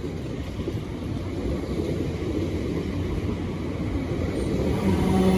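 A pair of class 455 electric multiple units arriving at the platform, giving a low, steady rumble that slowly grows louder. A steady droning tone comes in near the end.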